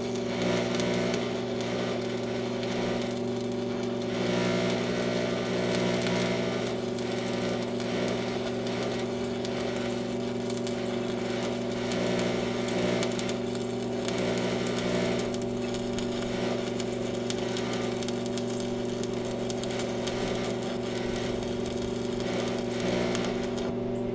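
Electric arc welding on steel: a continuous crackling, sizzling arc that breaks off briefly a few times, over a steady electrical hum.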